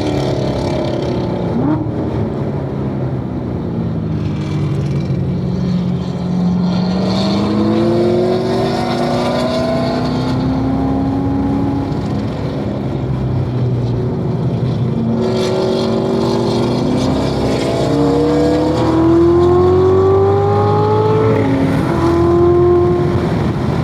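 2016 Corvette Z06's supercharged 6.2-litre V8 driven hard on a road course, engine pitch rising and falling through the lap, with sudden drops in pitch at gear changes about two seconds in and again near the end.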